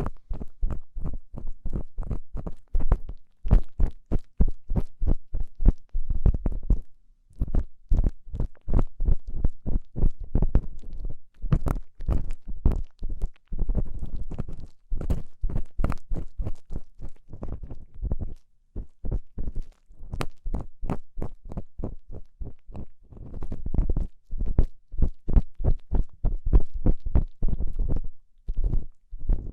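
ASMR ear cleaning: an ear-cleaning tool scraping and rubbing close inside a microphone's ear, in quick repeated strokes about three or four a second. The strokes stop briefly about 7 seconds in and again about 18 seconds in.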